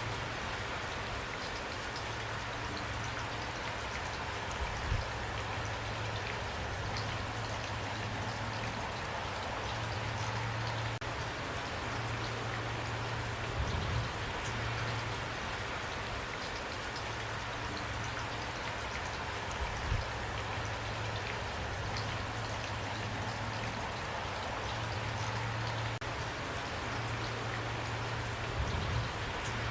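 Steady rain falling on a surface, an even hiss of many drops. A low hum comes and goes under it, and there are a few soft low knocks.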